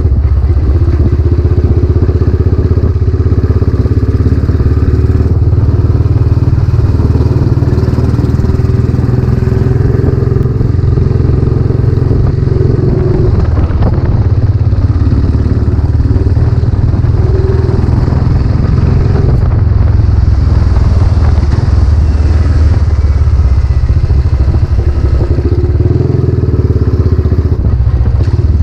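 Royal Enfield Classic 500's single-cylinder engine running steadily under way through its newly fitted silencer.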